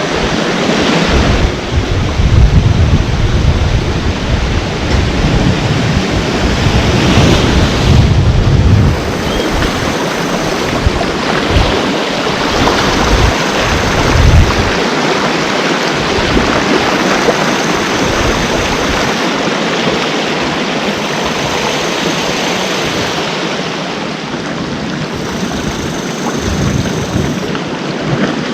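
Ocean surf washing against the shore in a continuous rush. Wind buffets the microphone as a low rumble, heaviest through the first nine seconds and returning in short gusts later.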